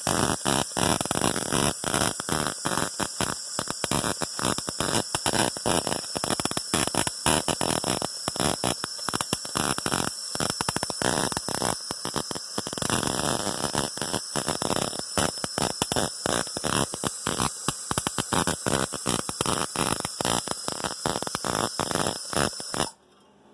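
Electric arc welder running a weld on a steel patch piece: a steady, loud crackle broken by many brief stutters, which stops abruptly just before the end.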